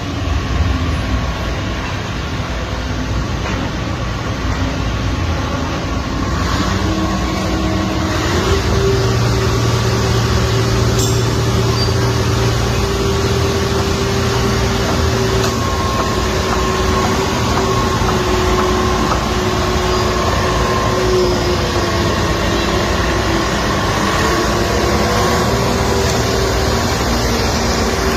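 Heavy cargo-handling machinery running steadily at a port: a low engine drone with a whine that shifts up and down in pitch several times as the load is worked.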